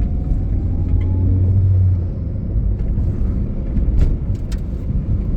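Car driving, a steady low rumble of engine and road noise heard from inside the cabin. A faint whine rises in pitch at the start, and a few sharp clicks come about four seconds in.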